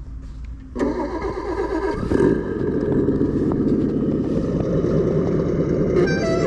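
An engine starts about a second in, then runs steadily, louder from about two seconds in. Near the end, clear tones stepping in pitch join it.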